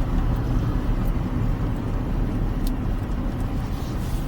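Smart car driving along, with a steady low rumble of engine and road noise.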